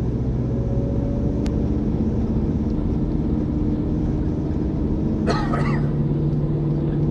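Motor vehicle engine running with a steady hum that shifts in pitch about five seconds in, where a short rough noise also sounds.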